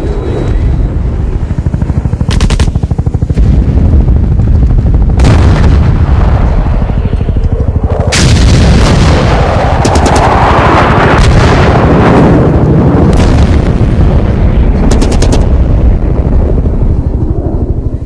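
Water sloshing and knocking against a camera riding on a floating toy boat, heard as a loud, distorted rumble with sharp knocks now and then. It cuts off suddenly at the end.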